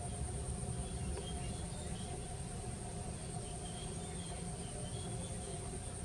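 Steady outdoor ambience: a continuous high-pitched insect-like drone and a steady hum over a low rumble, with a few faint short chirps.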